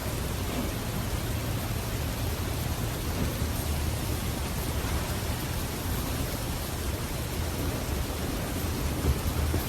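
Steady rushing noise with a fluttering low rumble underneath.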